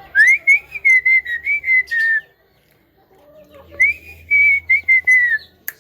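Javan myna whistling two wavering phrases that hold near one pitch, each about two seconds long, with a short pause between them. A sharp click comes near the end.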